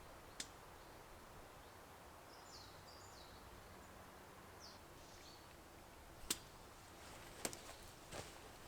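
Quiet winter forest ambience with a few short, high, falling bird chirps a couple of seconds in, and four sharp snaps or clicks, the loudest a little past six seconds.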